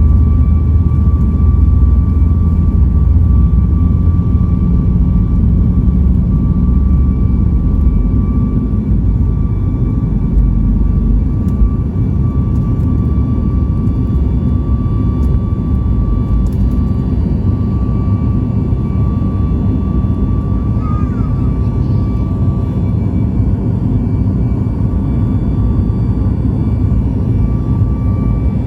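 Cabin sound of a Boeing 737-9 MAX at takeoff: its CFM LEAP-1B jet engines running at high thrust under a loud, steady rumble, with a steady high whine. The rumble is heaviest for about the first ten seconds, then eases a little.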